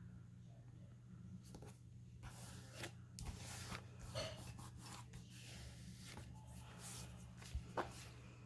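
Faint rustling and light taps of paper craft materials being handled on a worktable, over a steady low hum.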